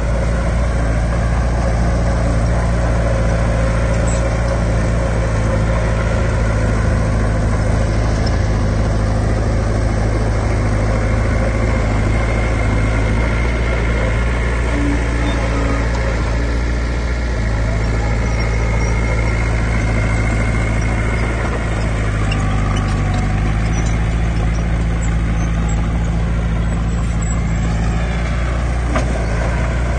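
Heavy diesel engine of earthmoving machinery running steadily with a low, even hum, its pitch shifting slightly about halfway through and again a few seconds later.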